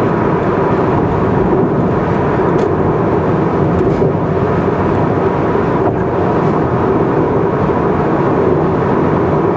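Car cruising at expressway speed: a steady, loud mix of tyre and road noise with engine drone.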